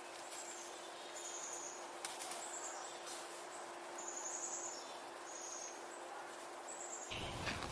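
Outdoor ambience with repeated short, high-pitched chirps from small animals over a faint steady hiss and a thin steady hum. A low rumble comes in near the end.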